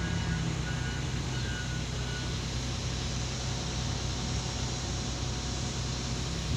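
Engine running steadily at a constant speed, a low hum with a wash of noise over it and no revving.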